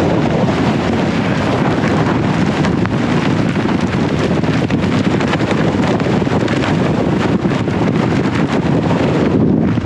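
Strong mountain wind blasting across the microphone: a loud, unbroken rushing roar with heavy low buffeting.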